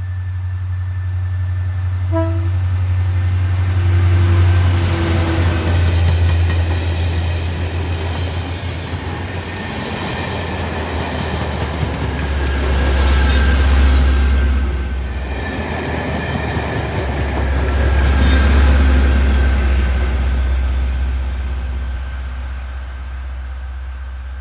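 A locomotive-hauled test train passing close, led by Class 73/9 locomotive 73962: a short horn note about two seconds in, then engine drone and wheel-on-rail noise swelling several times as the locomotives and coaches go by. The sound fades as the train draws away near the end.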